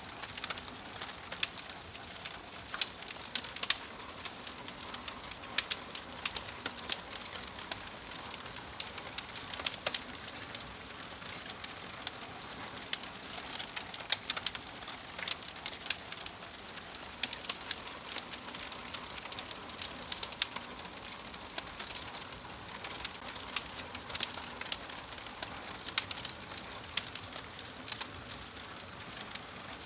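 Wood fire crackling in a fireplace: irregular sharp snaps and pops, several a second, over a steady soft hiss.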